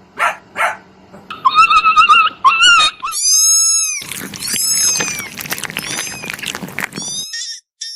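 An animal's high-pitched squeals and chirps. It begins with a few breathy sounds, then gives a series of wavering calls and quick squeaks that stop abruptly near the end.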